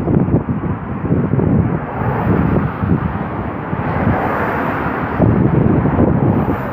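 Low rumble of a freight train of autorack cars rolling along the track, mixed with wind buffeting the microphone in irregular gusts.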